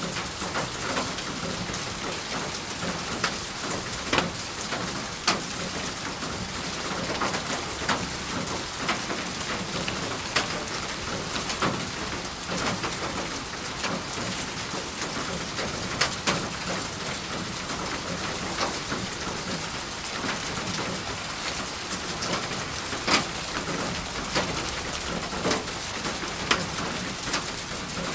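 Steady rain falling, with frequent sharp drops striking a surface; a few single drops stand out louder.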